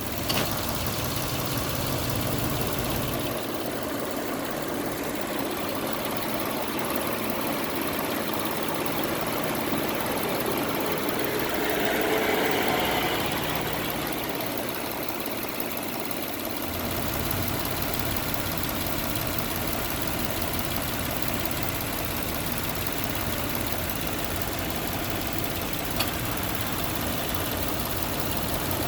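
An engine idling steadily, with a brief swell in the middle and a single sharp click near the end.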